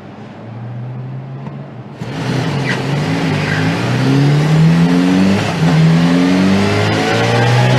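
A vehicle engine, at first a steady lower hum, then about two seconds in much louder and accelerating, its pitch climbing and dropping back several times as if shifting up through gears.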